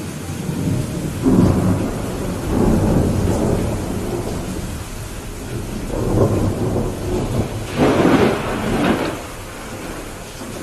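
Thunderstorm: steady rain with rolling thunder. Low rumbles swell about a second in and again around six seconds, and a louder, sharper clap comes near the end.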